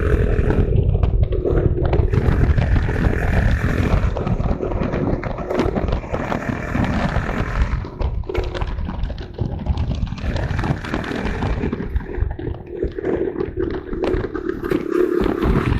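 Small motorcycle engine running while riding, its level rising and falling, with heavy low rumble throughout.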